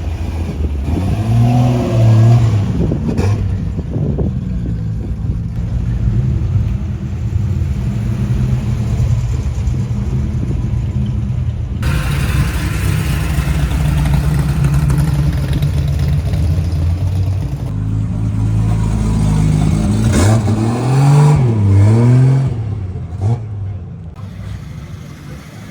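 Car engine running at idle, revved up and back down about two seconds in and again about twenty seconds in.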